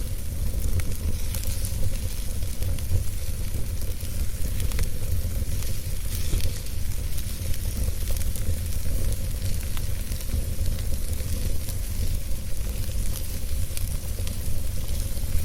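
Wood fire burning steadily, with a low rumble, a continuous hiss and frequent small crackles and pops.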